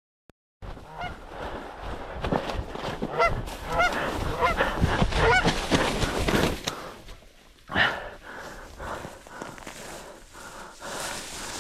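Geese honking repeatedly: many short honks at first, then a single louder one about eight seconds in, over wind noise. The sound starts abruptly after a brief silence.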